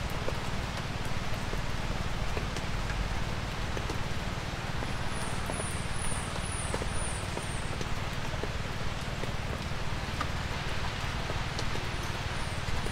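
Light rain falling steadily in woodland: an even hiss with scattered drop ticks. A run of about six short, high, falling chirps comes about five seconds in, and a few more near the end.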